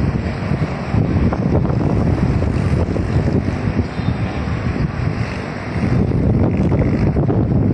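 Strong thunderstorm wind buffeting the microphone: a loud, rough rumble that swells and eases in gusts.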